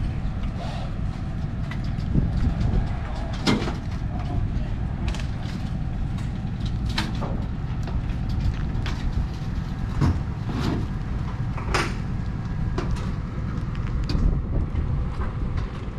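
A steady low rumble with sharp knocks and clanks scattered through it, about seven or eight, one every second or two.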